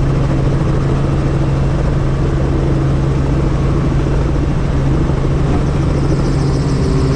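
Helicopter running, heard from on board: a loud, steady engine and rotor drone with a strong low hum.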